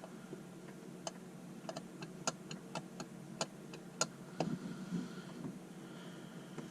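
About a dozen small sharp clicks at an uneven pace, from the GlowShift Elite 10 tachometer's setup button being pressed again and again to step its shift-point setting up; the clicks stop about two-thirds of the way through. A faint steady hum sits underneath.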